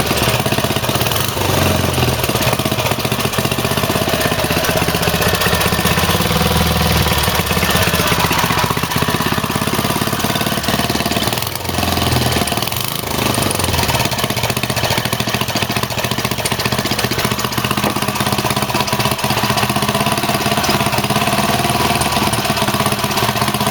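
Rebuilt small petrol engine running steadily with its air filter off, the engine that was once seized now running smoothly. It dips briefly in level about halfway through.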